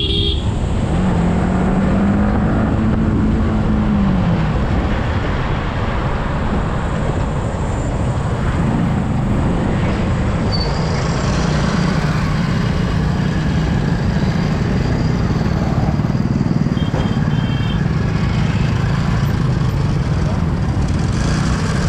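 Yamaha R15 V3's single-cylinder engine running while the bike is ridden through traffic, with wind rushing over the microphone. An engine note rises and falls in the first few seconds.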